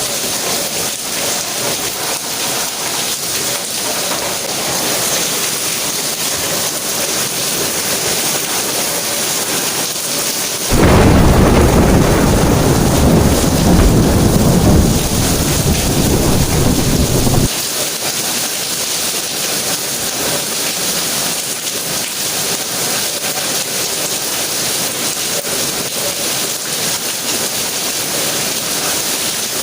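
Steady rain falling, with a loud, deep thunder rumble that starts suddenly about eleven seconds in, lasts about seven seconds, and cuts off abruptly.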